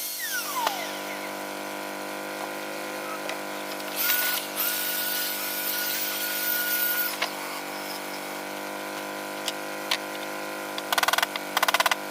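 A small electric power tool runs with a steady whine for about three seconds in the middle, starting and stopping abruptly, over a steady hum. Near the end comes a quick run of sharp taps.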